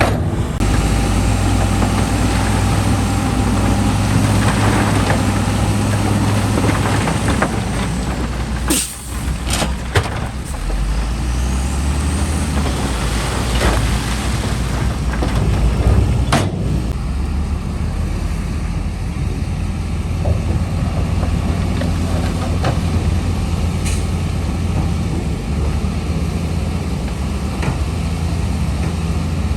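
Heavy diesel construction machinery running steadily with a deep drone, with a few short sharp sounds about nine, ten and sixteen seconds in.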